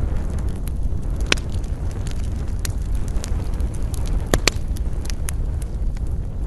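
Campfire burning, its wood crackling with scattered sharp pops, two louder pops about a second in and past the middle, over a steady low rumble of wind.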